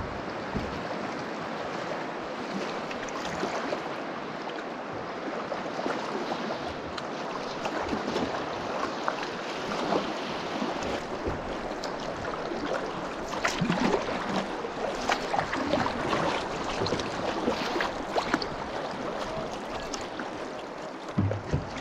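River water rushing and splashing around a canoe as it is paddled through a shallow stretch, with a few sharper splashes about two thirds of the way through.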